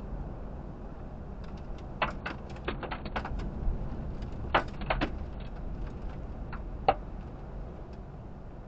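Steady low rumble of a vehicle, heard from inside, with a scattering of irregular sharp taps and clicks, the loudest coming about two, four and a half and seven seconds in.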